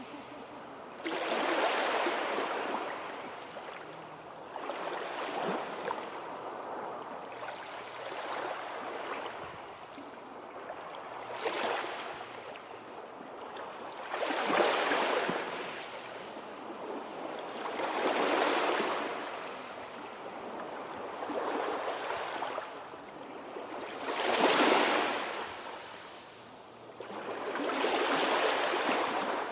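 Sea surf: waves rush in and wash back, the hiss swelling and fading about every three to four seconds.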